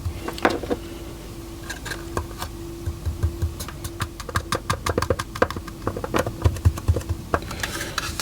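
Fine model railway ballast being poured lightly from a small container onto the layout, the grains landing in many quick, irregular little ticks that come thickest in the second half.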